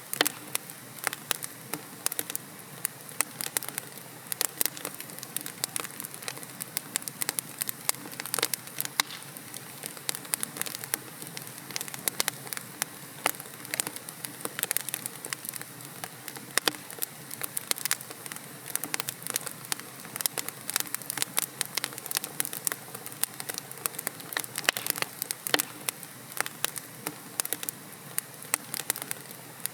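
Wood logs burning in a fireplace, crackling and popping irregularly over a steady low hiss of flame.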